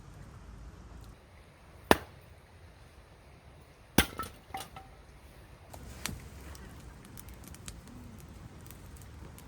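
Two sharp knocks of hard objects about two seconds apart, the second followed by a short rattle, then a few lighter clicks and ticks.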